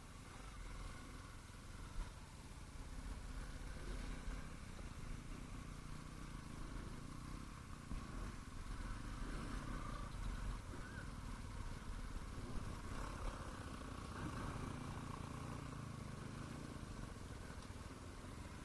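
Motocross bike engines running steadily at a distance, a continuous engine hum over a low rumble.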